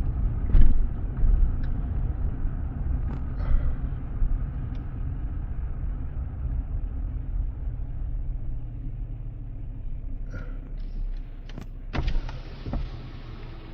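Car driving slowly, its low engine and road rumble heard from inside the cabin and growing quieter partway through, with a few light knocks. Near the end there is a short burst of hiss lasting about a second and a half.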